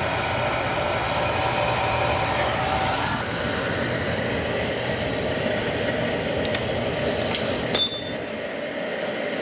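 Beckett oil burner running steadily with a continuous whine from its motor and fuel pump, which the technician suspects comes from air in the pump. A short, sharp metallic clink about eight seconds in.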